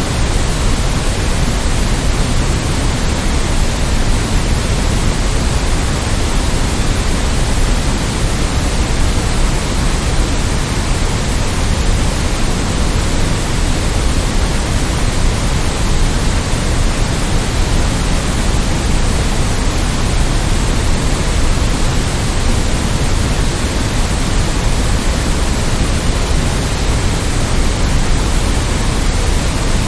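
Constant white noise: a steady, even hiss with no changes, somewhat fuller in the low end.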